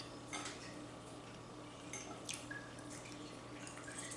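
A few faint, short clicks over a steady low hum.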